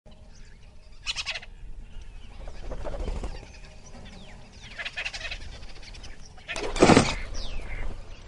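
Bird calls in several short bursts with quick gliding chirps, the loudest burst about seven seconds in.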